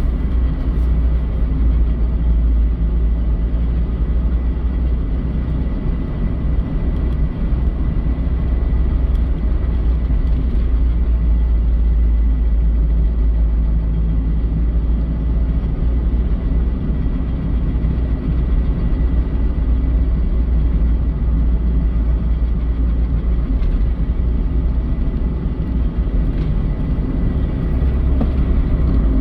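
Mazda Eunos Roadster NA8C with its 1.8-litre four-cylinder, running steadily with a constant low rumble and a faint, thin high tone throughout. The car is making an abnormal noise that the owner describes as something dragging or rubbing.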